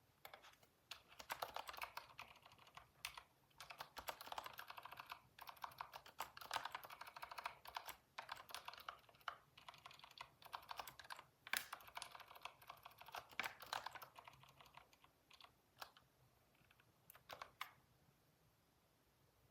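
Typing on a computer keyboard: quick bursts of keystrokes with short pauses, thinning to a few scattered key presses toward the end.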